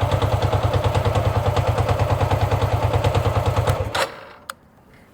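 Hyosung GV650 Aquila's V-twin engine idling evenly with a fast steady pulse, choke off after a cold start. It stops about four seconds in, and a single click follows.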